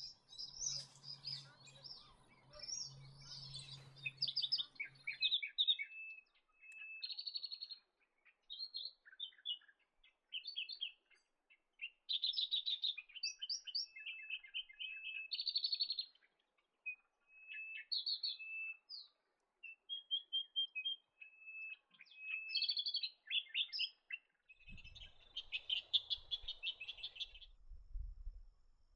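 Small birds chirping and trilling in a busy, overlapping series of short, high calls, with brief pauses between phrases.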